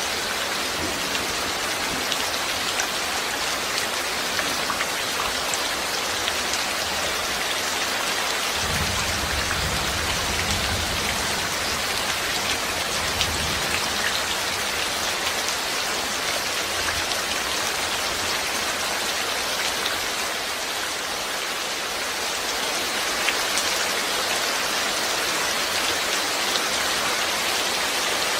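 Steady rain falling, an even hiss with scattered drop ticks. A low rumble swells about nine seconds in and fades out a few seconds later.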